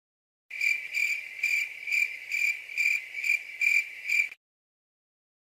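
Stock crickets-chirping sound effect, the famous gag for an awkward silence: a steady high-pitched cricket trill pulsing about two and a half times a second, about nine chirps. It starts half a second in and cuts off abruptly near the end.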